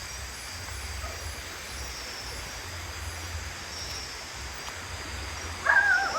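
Night-time outdoor ambience: insects chirping in a steady pulsing rhythm over a low rumble, with a short animal call near the end.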